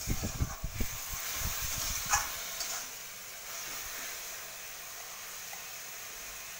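Chopped mustard greens and soybean sizzling in a hot metal kadai as a spatula stirs them, with knocks and a sharp clink of the spatula against the pan in the first two seconds or so, then a steady sizzle.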